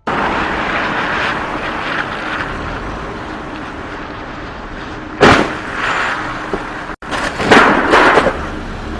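Steady road and engine noise from a car, with a sudden loud bang about five seconds in. Near the end comes a second burst of loud crashing noise.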